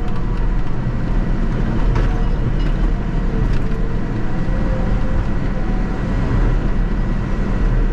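Caterpillar D6 bulldozer's diesel engine running steadily, a loud, even low rumble.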